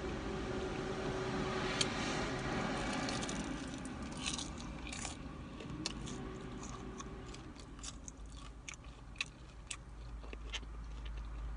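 Crunchy bites and chewing of fried chicken close to the microphone: one sharp crunch about two seconds in, then a string of crisp crunches through the middle and latter part, over a steady low hum.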